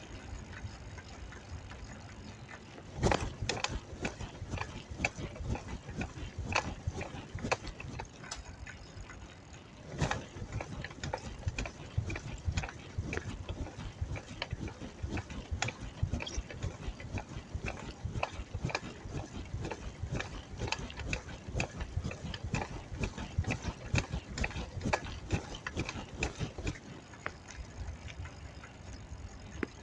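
Bicycle being ridden: a steady stream of irregular clicking and rattling from the bike, with the ratcheting of the freewheel, and a few louder knocks about three and ten seconds in.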